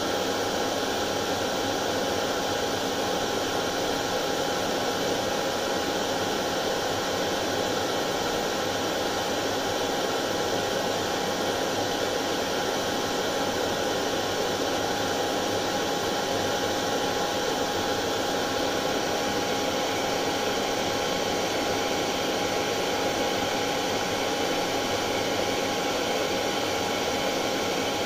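Hair dryer running steadily, an even rushing hiss of fan and blown air with a constant whine.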